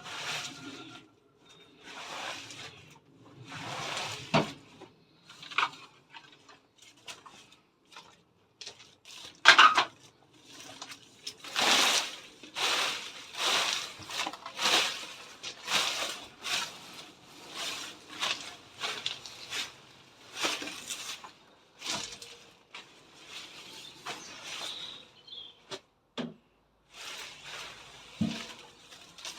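Leafy hedge branches rustling and crackling in a series of short bursts, about one a second at their busiest, as the hedge is cut back and handled.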